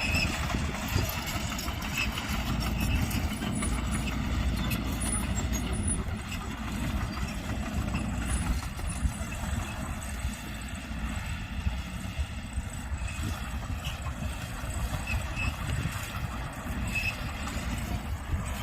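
Earth-moving machinery working: a steady diesel engine drone with no break.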